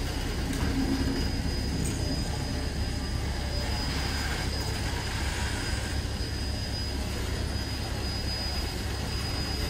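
Steady rumble and hiss of a heritage steam train and its carriages at a station platform, with a thin steady high whine above it.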